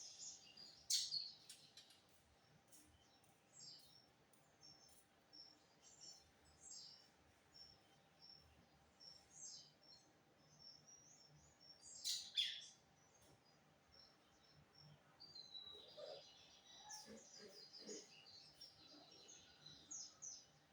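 Lined seedeater (bigodinho) singing in short bursts of high chirps and twittering, mostly faint. Louder phrases come about a second in and again around twelve seconds, and a denser run of notes comes near the end.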